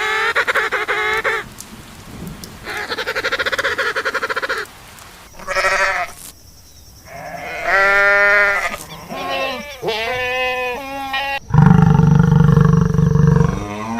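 Goats bleating: a run of about five or six separate calls, the first two long and quavering, the later ones shorter. Near the end a loud low sound takes over.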